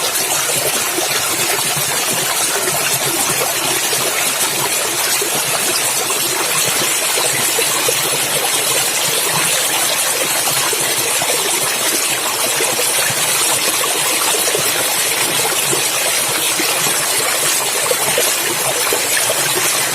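Clear stream water running and splashing over rocks: a steady, even rush with a hissing top.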